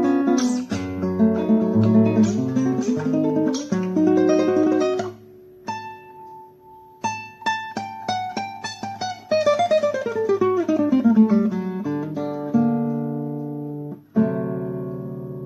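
Solo classical guitar playing fast plucked runs and arpeggios. Partway through it softens to a stretch of quick repeated high notes, then a long descending run, with a loud new chord struck near the end.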